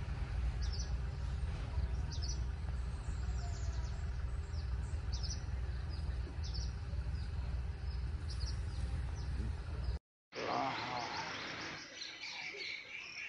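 Birds chirping with short, high, falling calls, repeated over and over above a low steady rumble. About ten seconds in, the sound cuts out for a moment and gives way to a noisier stretch with more bird calls.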